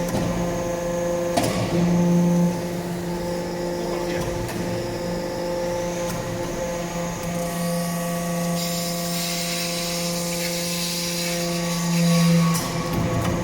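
Hydraulic metal-chips briquetting press running: a steady hydraulic pump hum, with a few sharp clanks. A hiss comes in past the middle for a few seconds, and the hum swells louder shortly before the end.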